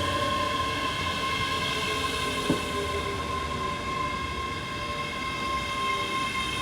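Train running, with a steady whine of several held tones over a rumble, and a single sharp click about two and a half seconds in.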